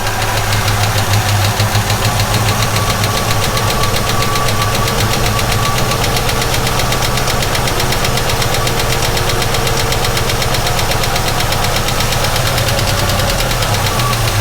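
The 1967 Ford Mustang's starter cranking the engine steadily for about fifteen seconds without it catching, in a no-start condition that is being traced to the fuel supply and carburetor.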